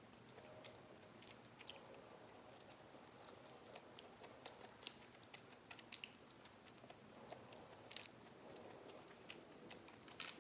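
Eating sounds: chewing with scattered crisp clicks and crunches, the loudest near the end.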